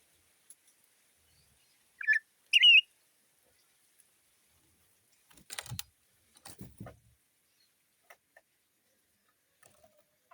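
A bird gives two short, sharp calls about two seconds in, the second louder and wavering. Two brief rustling noises follow near the middle.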